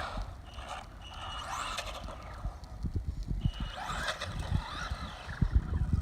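An electric RC truck's Castle Creations brushless motor whining as it accelerates, its pitch rising twice as the throttle is opened. Short thumps and rattles of the tyres and chassis on rough ground run underneath.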